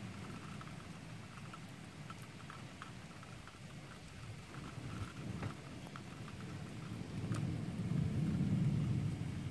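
Heavy rain falling steadily, with scattered drops ticking close by. A low roll of thunder swells over the last couple of seconds.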